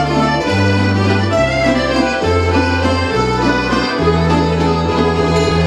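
Instrumental accompaniment to a choral psalm playing without voices: sustained chords over a bass line that moves to a new note about once a second.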